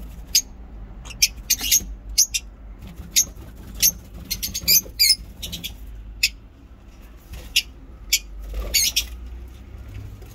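Lovebirds in an aviary giving short, sharp high-pitched chirps, about a dozen scattered irregularly, over a low steady rumble.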